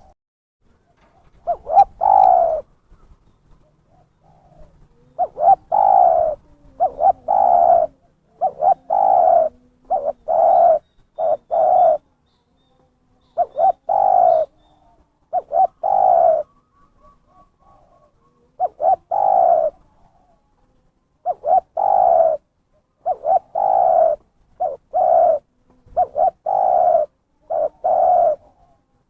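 Spotted dove (terkukur) cooing over and over in short phrases of low, slightly falling coos, a phrase every second or two with a couple of longer pauses. It is a lively, persistent call, used as a lure to draw in wild doves.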